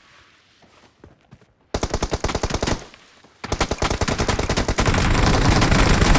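Video game automatic gunfire: a burst of rapid shots about two seconds in, a short pause, then sustained fast fire from about three and a half seconds in.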